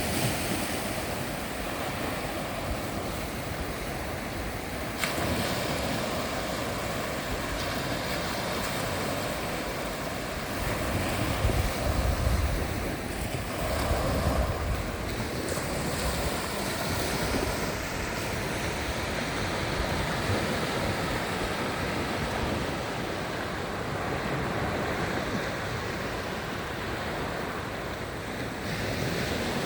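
Sea waves washing onto the shore in a steady surf, with wind buffeting the microphone, strongest around the middle.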